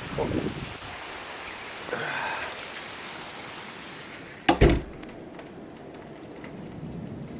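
Heavy rain pouring down, a dense steady hiss. About four and a half seconds in come two loud knocks close together, after which the rain sounds much duller.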